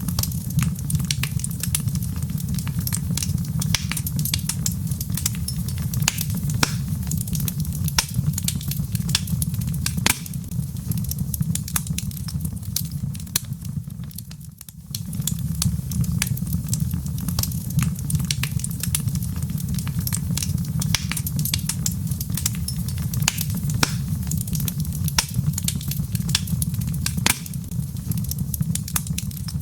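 Wood fire burning in a fireplace: a steady low rush of flames with frequent sharp crackles and pops from the burning logs, dipping briefly about halfway through.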